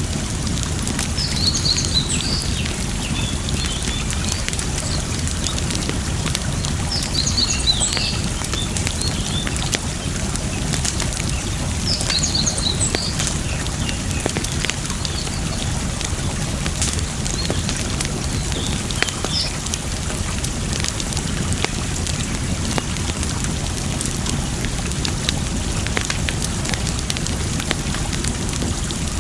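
Campfire crackling with scattered sharp pops over a steady rush of running water. A small bird chirps in short runs four times: near the start, around a quarter and halfway through, and about two-thirds of the way in.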